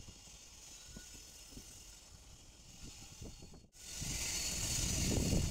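Passenger train running, heard from inside the moving carriage: a low rumble with a hiss of air. It breaks off for an instant about two-thirds of the way in and comes back much louder.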